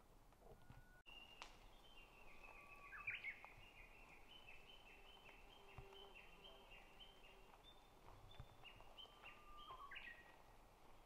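Faint birdsong: a long string of short whistled notes repeating several times a second, over quiet outdoor background noise.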